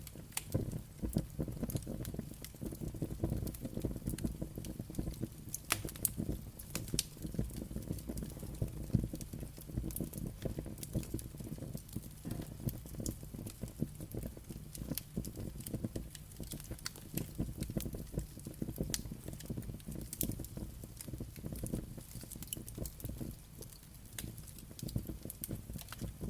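Wood fire crackling: a steady low rumble of burning with sharp pops and snaps scattered irregularly throughout, a few of them louder.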